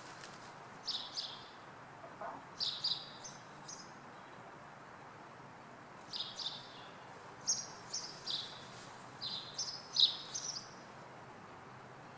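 Small birds chirping in short, high bursts of two to four chirps, several times over, with a steady faint background hum of the city.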